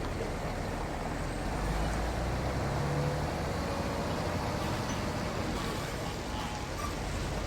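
Steady road traffic noise with a low engine rumble, a brief low hum rising out of it about three seconds in.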